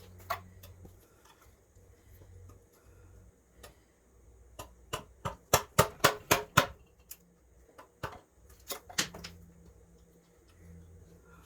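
Wood chiseling: sharp knocks of a chisel being struck into a wooden carving. There are a few scattered single knocks, then a quick run of about seven loud strikes around the middle.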